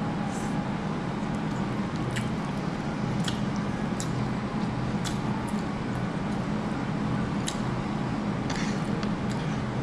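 Mouth sounds of eating braised pork leg: chewing and lip smacks, heard as scattered short wet clicks over a steady low hum.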